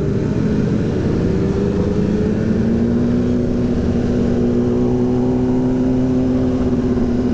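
Motorcycle engine running under way, its note climbing gently over the first couple of seconds and then holding steady, over a constant low rush of wind and road noise.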